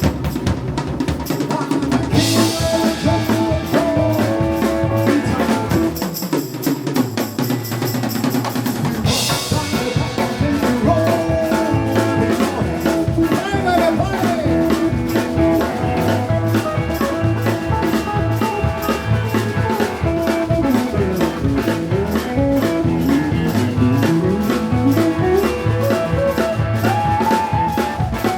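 Live rock and roll band playing with a drum kit keeping a steady beat. Cymbals wash from about two seconds in to about nine seconds in, while the low end briefly drops away.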